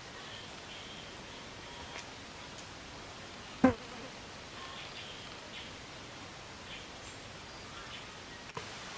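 Outdoor ambience: a steady hiss with faint, short, high chirps scattered through it, and one brief loud sound a little over three and a half seconds in.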